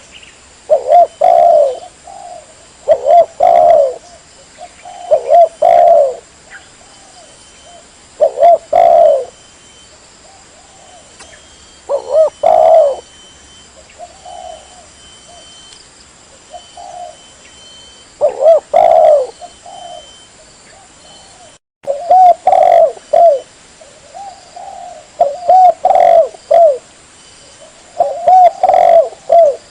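Spotted dove (tekukur) cooing, a dove lure call: short phrases of a few low, loud coos repeated about every two seconds, with a brief silent dropout about two-thirds of the way through.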